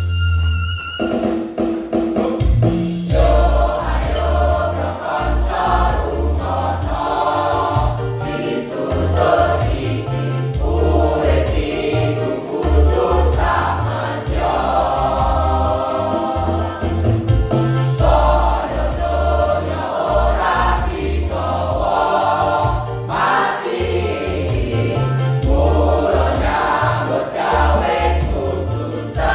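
A choir singing a song in rehearsal, with several voices together over a steady accompaniment with heavy low bass notes.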